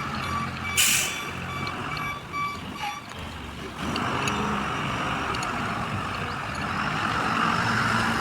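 Truck sounds: a repeating electronic beep for the first three seconds, a short hiss of air about a second in, then a steady running noise from about four seconds on.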